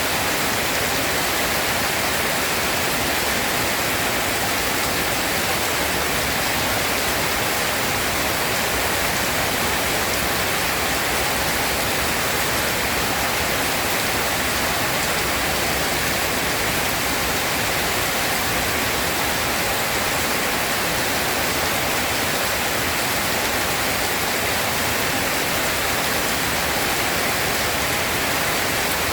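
Steady, even downpour of rain, a dense hiss with no single drops or thunder standing out.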